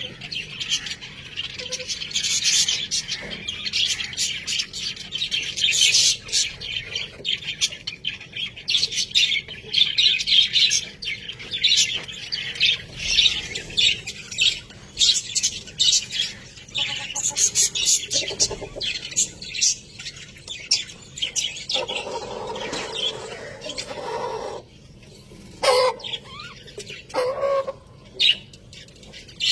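Budgerigars chattering and warbling: dense rapid chirps that thin out in the last few seconds into a few separate calls.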